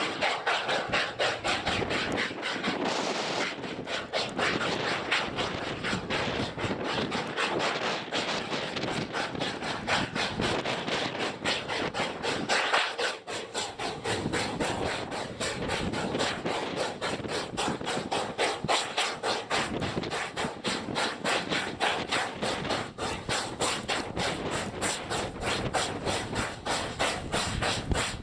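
Wind-driven snow and ice pelting the microphone in a blizzard: a dense, crackling, scratchy hiss of countless tiny rapid hits.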